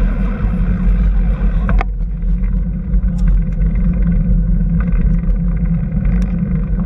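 A motor vehicle running, a loud steady low rumble with a few faint clicks over it.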